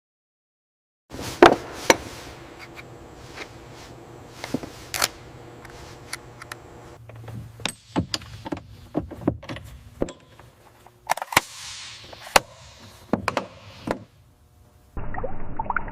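A string of sharp, irregular metal clanks and knocks over a low steady hum, as heavy parts are handled on a lift; the loudest strikes come about a second and a half in and again around eleven to twelve seconds. Near the end the clanking stops and a muffled, gurgling-like noise begins.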